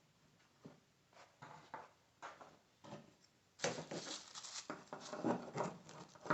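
Pieces of plastic cutting board knocking and scraping against the floor opening as they are pushed into place, a tight fit. Sparse and faint at first, then busier and louder from a little past halfway.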